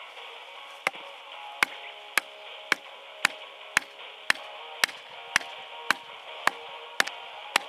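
Wood being chopped with a hand blade: a steady run of sharp knocks, about two strokes a second, thirteen in all.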